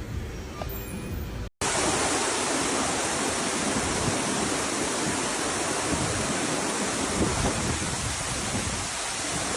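Storm noise: a loud, steady rush of heavy rain and wind. It cuts in abruptly about a second and a half in, after a quieter stretch and a brief dropout.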